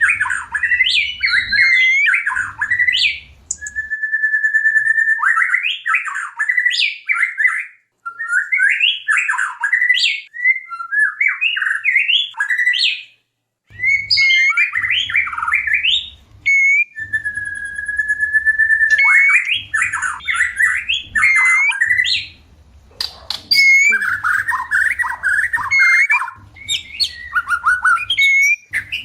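White-rumped shama singing in breeding condition: rapid phrases of varied, sweeping whistled notes separated by short pauses, with a long steady whistle twice.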